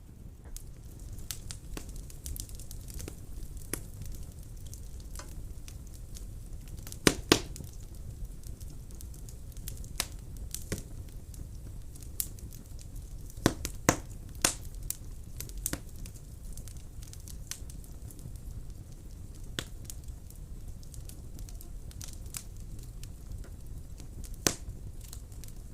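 Wood burning in a fireplace: scattered sharp crackles and pops over a low, steady rumble of the flames. The loudest are a quick pair of pops about seven seconds in and a cluster of pops near the middle.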